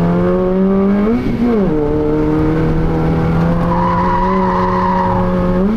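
Car engine heard from inside the cabin, accelerating hard under full throttle: the revs climb steadily, jump and drop at a gear change about a second in and again near the end. A tyre squeal runs through the middle.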